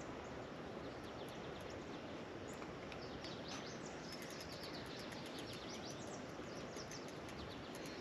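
Outdoor marsh ambience: birds chirping over a steady hiss of background noise. About halfway through, a fast, very high ticking joins in.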